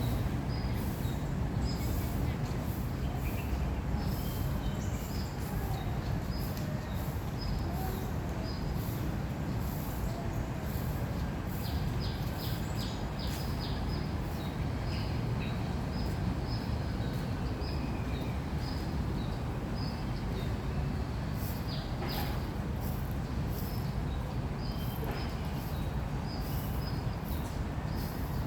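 Birds chirping again and again in short high notes over a steady low rumble of distant city traffic.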